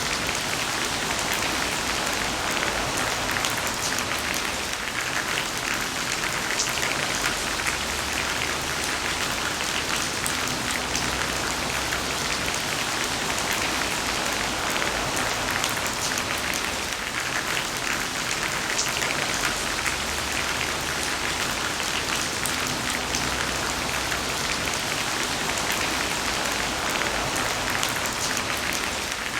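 Heavy rain falling steadily: a dense, even hiss of rainfall flecked with the ticks of individual drops hitting a surface.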